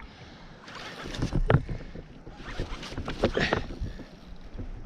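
Water sloshing against a kayak hull, swelling twice.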